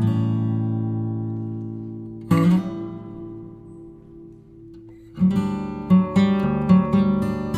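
Acoustic guitar music. A strummed chord rings out and fades, a second chord comes about two seconds in, and from about five seconds in a quicker picked pattern begins.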